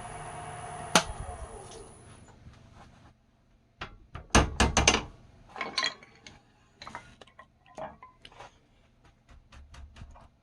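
Wood lathe running, switched off with a click about a second in, its motor hum falling in pitch and dying away as it spins down. Then a series of knocks and clicks from handling at the lathe, loudest in a quick cluster near the middle.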